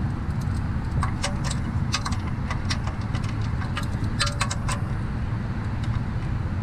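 Irregular metallic clicks and clinks of hand tools being handled while the oil drain plug is tightened, over a steady low rumble.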